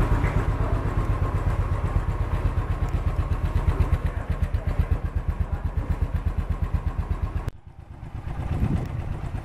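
Royal Enfield Continental GT's single-cylinder engine idling with an even, rapid beat. The sound drops away abruptly about seven and a half seconds in, then the idle beat comes back.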